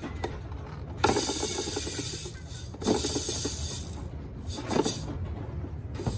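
Plastic toy parts clicking and rattling as they are handled, with stretches of scraping noise about a second in and again around three seconds.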